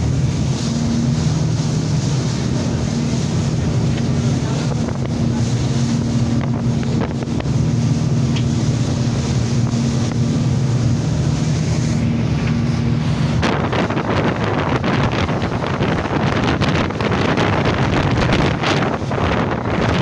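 Speedboat engine running steadily under way, with wind and water rushing past. About two-thirds of the way through, wind buffeting the microphone and the rush of water grow louder and cover the engine.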